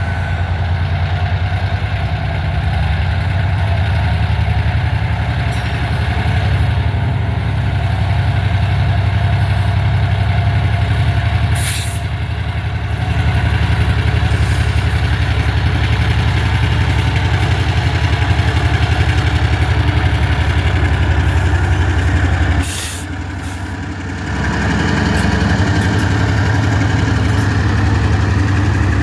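EMD MP15 switcher locomotive's diesel engine running steadily at low speed. Two short hisses of air come about twelve and twenty-three seconds in, and the engine sound drops briefly after the second.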